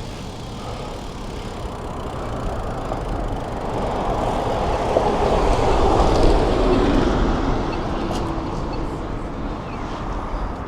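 Road traffic heard from a moving bicycle: a vehicle's noise swells to its loudest about six seconds in, then fades as it passes.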